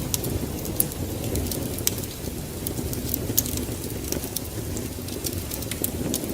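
Wood fire crackling, with scattered sharp pops, over a steady low rumble of rain.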